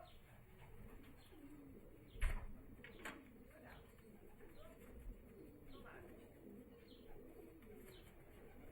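Racing pigeons cooing faintly, call after call, with a few short sharp knocks. The loudest knock comes about two seconds in.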